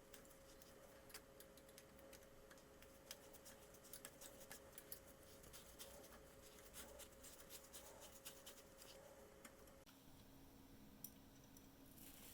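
Near silence: faint, irregular small clicks and ticks over a faint steady hum, the hum changing to a lower pitch about ten seconds in.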